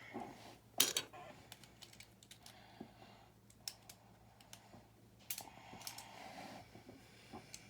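Plastic building bricks clicking and rattling as they are handled. The sharpest, loudest clicks come as a pair about a second in, with another strong click past the middle.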